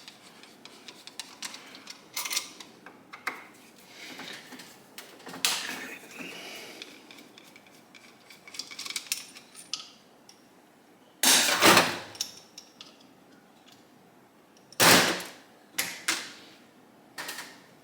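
Metal hand tools and engine parts clicking and clinking while a motorcycle engine's crankcase breather cover is worked off, with two loud sharp metal knocks about eleven and fifteen seconds in.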